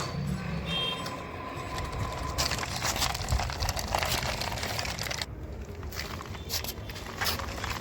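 Toy JCB and toy dumpers working loose soil: gritty scraping and irregular crackling of dirt against plastic, getting busier and more crowded with clicks from about a third of the way in.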